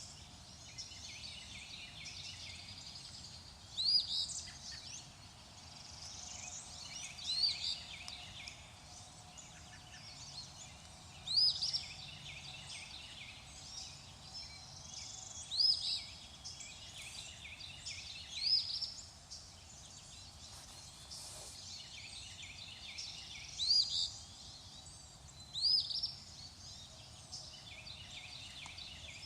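Songbirds calling in a chorus, with one louder bird repeating a short rising call every few seconds, over a faint steady background hiss.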